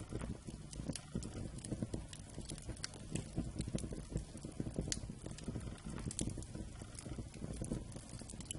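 Wood campfire crackling, with frequent irregular sharp pops over a low, steady rumble of burning.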